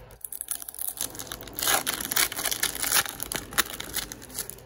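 Foil wrapper of a hockey card pack crinkling and tearing as it is opened and crumpled: a dense crackle, loudest in the middle.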